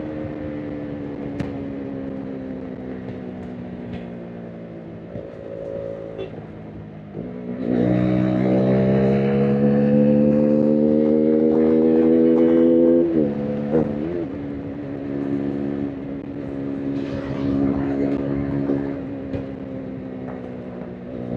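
KTM RC 390's single-cylinder engine heard from the rider's seat. The note sinks slowly on a closed throttle for about seven seconds. Then the throttle opens, and the note gets louder and climbs steadily under load for about five seconds. It drops sharply as the throttle is rolled off, then runs on at a lighter, fairly steady cruise.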